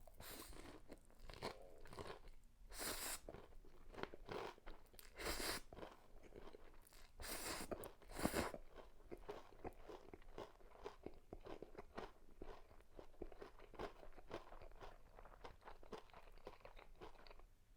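Close-miked chewing of crispy breaded pork cutlet. There are several loud crunches in the first half, then a run of quick, fine crunching chews that stops shortly before the end.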